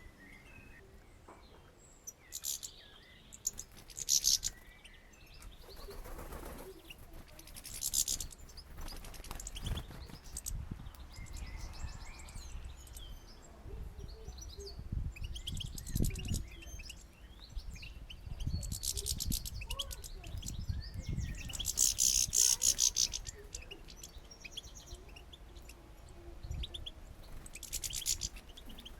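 Small songbirds at a feeder chirping and twittering in short high-pitched bursts, with wing flutters as they land, take off and chase each other off; the loudest burst comes about two-thirds of the way through. Occasional low thumps sound in between.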